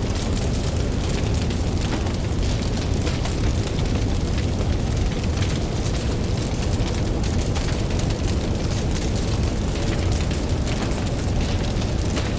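Campfire crackling, with many small sharp pops, over the steady low rumble of ocean surf.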